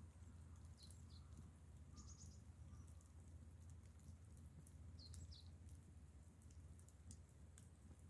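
Near silence: a faint steady low hum, with a few faint short chirps, a pair about a second in and another pair about five seconds in, and scattered faint ticks.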